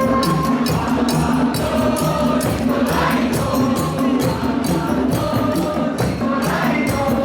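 Parade music: drums and shakers beating a fast, steady rhythm under a group of voices singing together.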